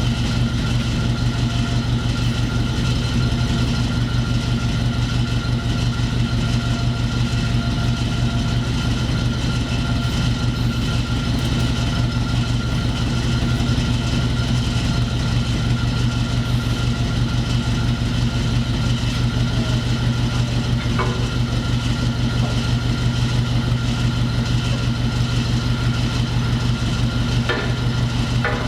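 Forklift engine running steadily at idle, with a couple of faint knocks near the end.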